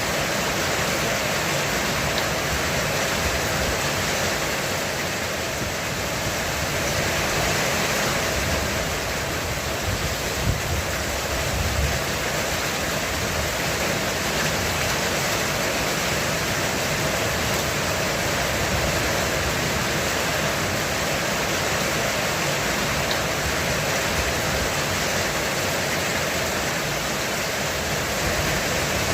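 Heavy rain falling steadily on a roof, an even hiss with no breaks, with a low rumble swelling briefly about ten seconds in.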